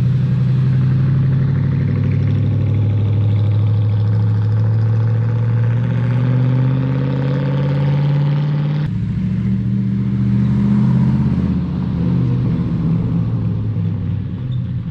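Truck engine running, its pitch slowly rising as it is revved or pulls under load. About nine seconds in the sound changes abruptly, then climbs again briefly.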